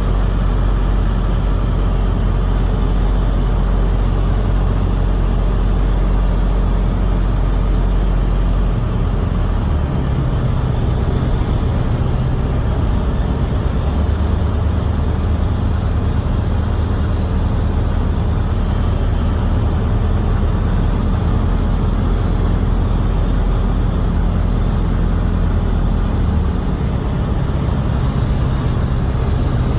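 Pulsar light aircraft's engine running steadily, its note shifting in pitch several times, around 10, 14 and 26 seconds in.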